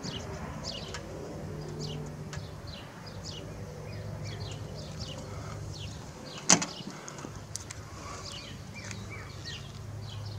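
Small birds chirping again and again, short falling chirps, over a steady low hum. One sharp click about six and a half seconds in.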